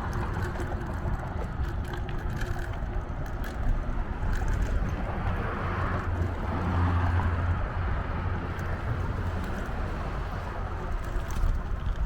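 Bicycle ride on the move: wind buffeting the microphone over a steady low rumble of tyres on pavement, with a few light ticks. The rumble swells a little about six seconds in.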